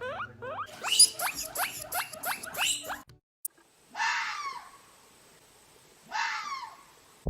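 Guinea pig wheeking: a fast run of rising squeals, about three a second, that stops about three seconds in. Then two hoarse animal calls, each falling in pitch, about two seconds apart.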